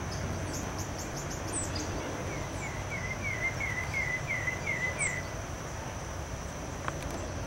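A bird calling: a run of about eight short, slightly falling notes, roughly three a second, lasting about three seconds. Beneath it are a few brief high chirps, a steady high insect-like whine and a low outdoor rumble.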